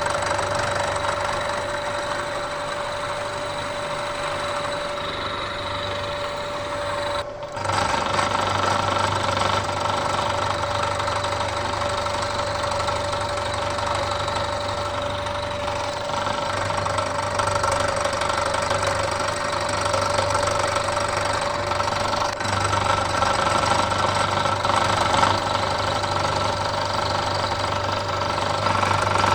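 Bridgeport milling machine running with an end mill cutting a metal block at a 100-thousandths depth of cut: a steady motor and spindle whine with the grind of the cut. The sound briefly drops out about seven seconds in, then carries on.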